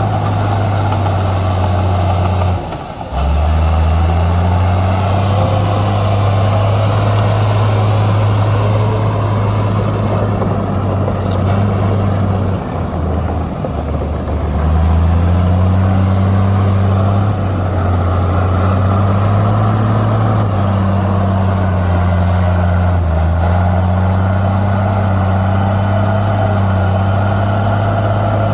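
Heavy earthmoving diesel engine running steadily, its note dipping and recovering briefly about three seconds in, again around the middle, and once more near the end.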